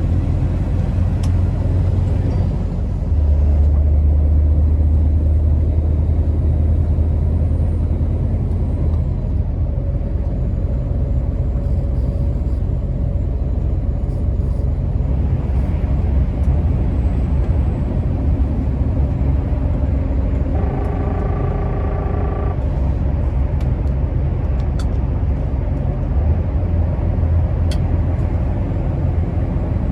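Scania R650's 16-litre V8 diesel engine running as the truck is driven, a deep steady drone that grows louder for several seconds starting about three seconds in. About two thirds of the way through, a brief pitched tone sounds for about a second and a half.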